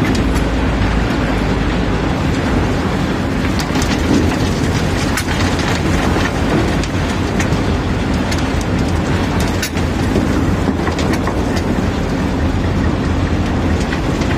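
Cobblestones being unloaded from a barge: a continuous heavy rumble and rattle of stone, with scattered sharp knocks of stone on stone.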